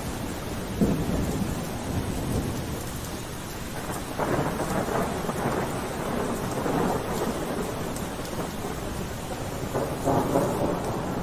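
Steady rain falling, with thunder rumbling over it in rolling swells, loudest from about four seconds in and again near the end.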